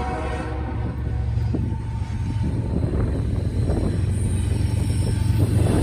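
Norfolk Southern freight train 29F approaching: a deep diesel locomotive rumble that grows slowly louder.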